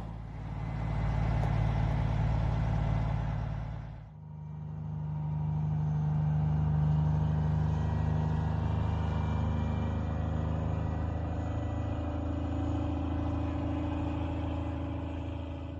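Vehicle engines running steadily at idle. About four seconds in, the sound dips sharply and gives way to another steady engine tone that slowly shifts in pitch.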